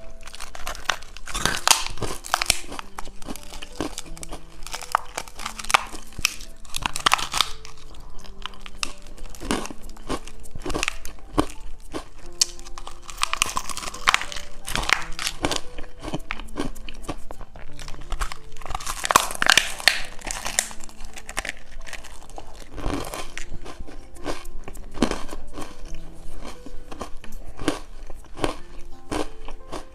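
Crisp crunching bites and chewing of a crunchy crispy-shell tube snack, repeated all through, over soft background music.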